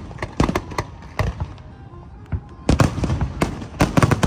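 Fireworks exploding in a fast, irregular string of sharp bangs, with dense clusters of reports about two-thirds of the way through and again near the end.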